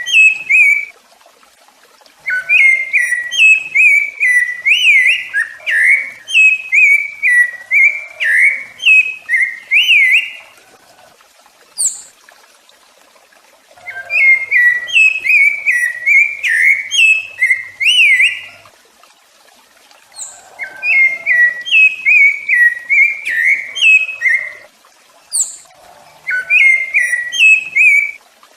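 Rufous-bellied thrush (sabiá-laranjeira) singing: bouts of rich, fluted whistled phrases made of quick gliding notes, each bout lasting several seconds, with short pauses between them.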